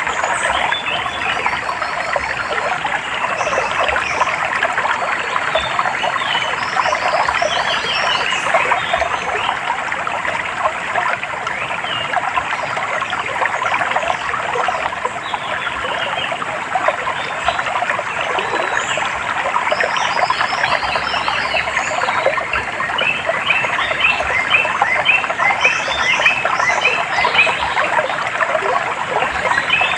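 Running, trickling water under a dense chorus of short, rapidly repeated animal calls, which grow busier and higher in the last third.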